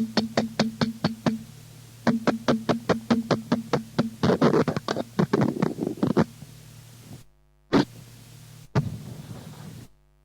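Electronic noise music: a fast, even train of sharp clicks, about six or seven a second, over a low drone, thickening into a denser noisy stretch in the middle. About seven seconds in it cuts off abruptly, then comes a single hit and a short burst of noise before silence near the end.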